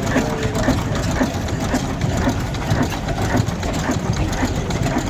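Engine running steadily with a fast, even clatter.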